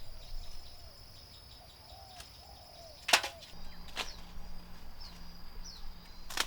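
Jungle insects droning in a steady high thin tone, with faint bird chirps and a few sharp clicks, the loudest about three seconds in.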